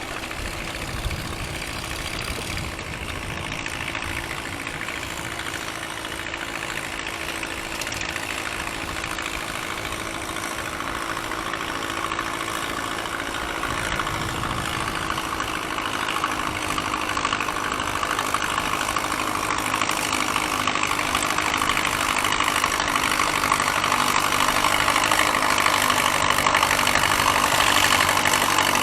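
Gas farm tractor's engine running steadily during a tractor pull, its sound growing gradually louder.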